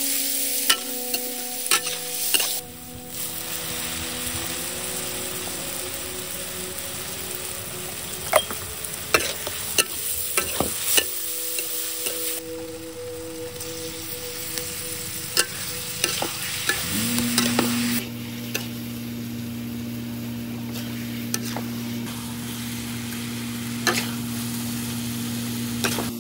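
A stir-fry of eel pieces and river snails with ginger and chili sizzling in a hot metal wok, while a metal spatula stirs and scrapes it with sharp clinks against the pan. A steady low hum comes in about 17 seconds in.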